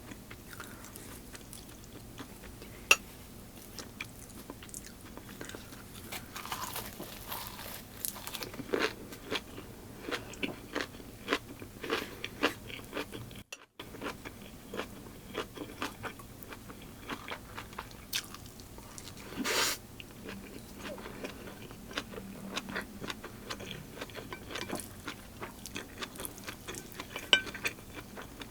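Close-miked chewing and crunching of food by a person eating, with many short crisp bites and crackles. The sound drops out briefly about halfway through, and there is one louder noisy burst about two-thirds of the way in.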